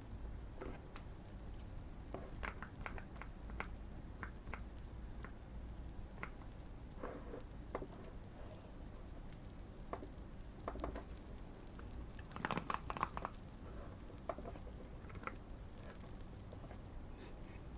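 Typing on a Keychron Q1 custom mechanical keyboard, modded with tape and foam, in short irregular bursts of keystrokes, the loudest about two-thirds of the way through. Light fireplace crackling with scattered sharp pops sits underneath.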